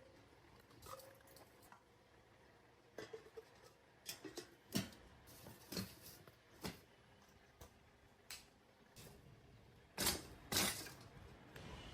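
Scattered light knocks and clicks of household objects being handled and set down, at irregular intervals, with two sharper knocks close together about ten seconds in.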